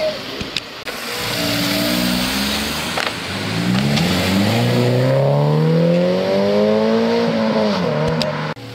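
A car engine accelerating away: its note climbs steadily for about four seconds, then eases off near the end.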